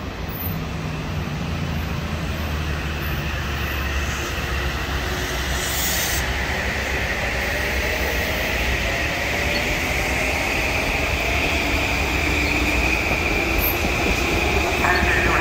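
Metro-North M8 electric multiple-unit train rolling past beside the platform. A steady low rolling sound is joined about halfway through by a high, steady whine, and mid-pitch tones climb slowly as the sound grows louder, consistent with the train gathering speed.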